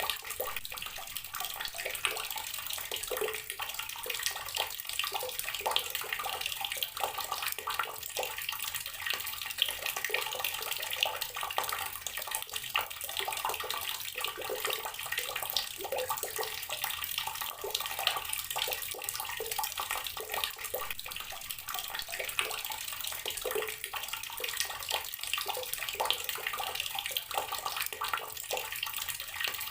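Water running steadily from an outdoor garden tap and splashing below it.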